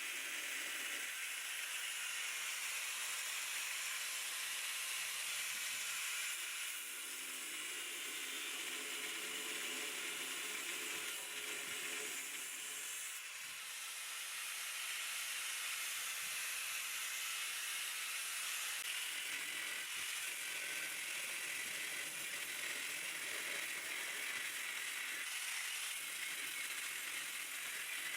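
Welding on the Land Rover Discovery 2's steel chassis rails: a steady hiss that runs on with small dips about seven and thirteen seconds in.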